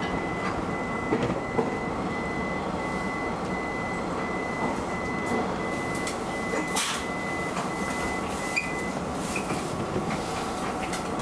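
Electric commuter train standing at a station platform, heard from the driver's cab: a steady hum of onboard equipment with a thin high tone that stops about nine seconds in, and a few faint clicks.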